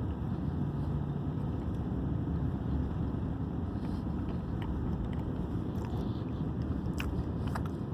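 Steady low rumble of a vehicle being driven, heard from inside the cabin: engine and road noise. A few faint short clicks near the end.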